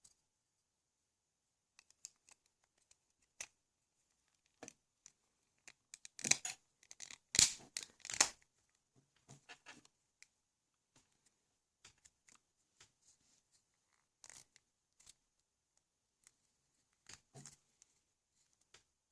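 Small plastic parts of a LEGO XL motor being handled: scattered light clicks and scrapes, with a louder stretch of scraping and rustling about six to eight seconds in.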